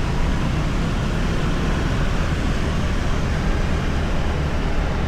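Steady road, wind and engine noise from riding pillion on a motorbike through traffic.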